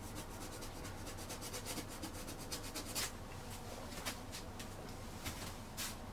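Paintbrush scrubbing oil paint onto canvas in quick repeated strokes, with a few louder strokes in the second half.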